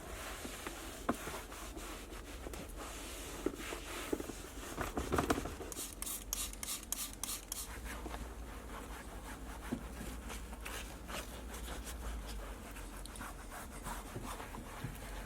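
Scratchy rubbing of detailing work on a car's surfaces, with small clicks and taps throughout and a quick run of sharper strokes about six seconds in.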